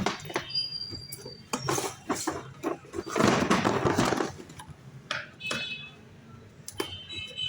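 Handling noise: a series of light clicks and knocks from hard objects, with a louder rustle or scrape of about a second some three seconds in.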